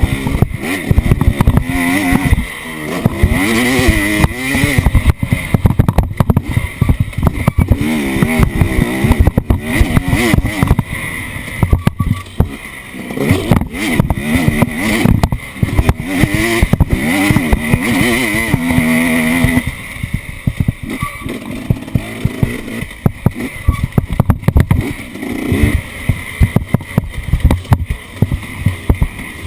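Off-road vehicle engine revving up and down repeatedly while driving, with frequent knocks and rattles from rough ground.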